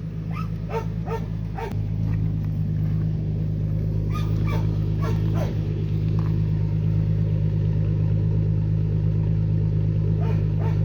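A 2003 Ford Ranger's 4.0L V6 idling steadily with a rumble through an exhaust whose muffler has been deleted, catalytic converters still fitted. Over the idle a dog barks in short groups: a few barks at the start, a few more in the middle, and a couple near the end.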